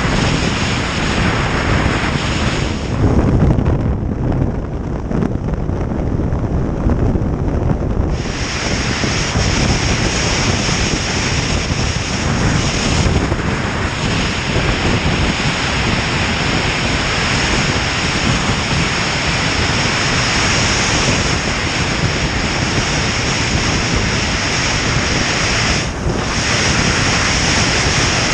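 Motorcycle riding at speed: a steady rush of wind on the microphone over the running engine. The high hiss thins out for a few seconds about three seconds in, then comes back.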